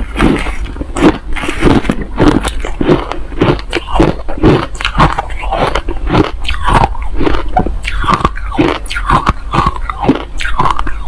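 Close-up crunching of hard crushed ice being bitten and chewed, a rapid run of sharp crunches several times a second.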